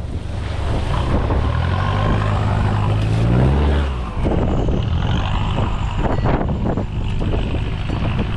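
Toyota Surf four-wheel-drive's engine revving up, its pitch rising for about three seconds before breaking off, under heavy wind buffeting the microphone.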